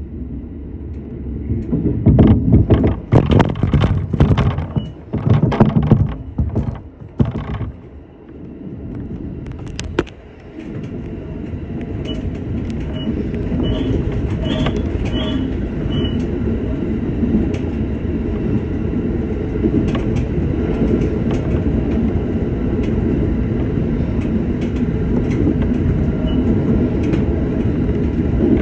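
Shinano Railway SR1 series electric train running, heard from on board: a steady rumble of wheels and running gear. In the first seconds it comes in louder uneven surges, there is a sharp click about ten seconds in, and then it settles into a steady run.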